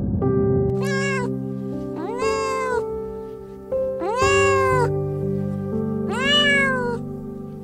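A Scottish Fold cat meowing four times, each meow rising and then falling in pitch, the last one the longest, over soft background music with held notes.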